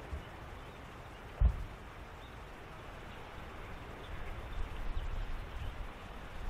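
Outdoor ambience: a steady low hiss with wind rumbling on the microphone, growing stronger in the last couple of seconds, and one brief low thump about a second and a half in. Faint, short animal calls can be heard in the distance.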